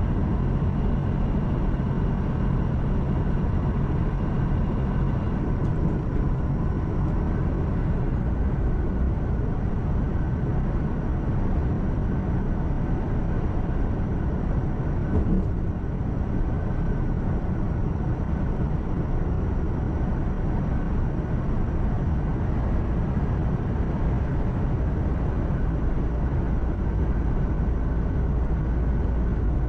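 Truck heard from inside the cab while driving: steady engine drone and road noise. There is one small knock about halfway through.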